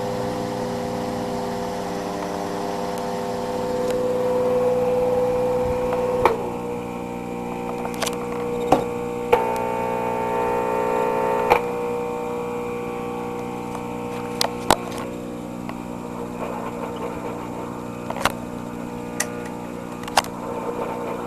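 Steady electronic buzz of many stacked tones from a 10 GHz Gunnplexer Doppler receiver's audio output picking up a fan, with sharp clicks scattered through. The tone shifts about six seconds in and changes pitch between about nine and eleven seconds.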